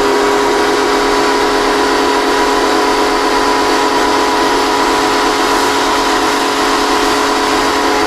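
Muc-Off bike pressure washer running, its pump motor holding a steady whine over the hiss of the water jet spraying.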